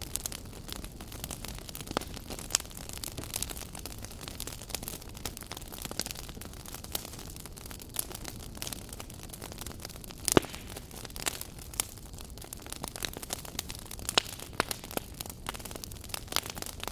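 Wood fire burning in a fireplace, a steady low rumble with irregular sharp crackles and pops, one louder pop about two-thirds of the way through.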